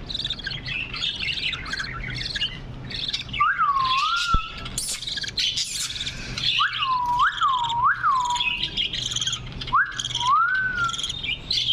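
Budgerigars chattering and warbling without a break, with clear whistled notes that rise and fall several times: one about a third of the way in, three in quick succession past the middle, and two more near the end.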